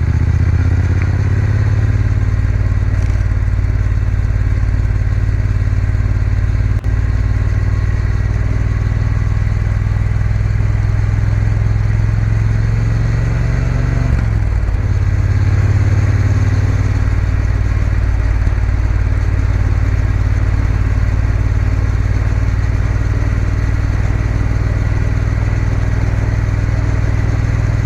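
Triumph Bonneville T120 parallel-twin engine running steadily as the motorcycle rides along. The engine note briefly breaks and shifts about halfway through.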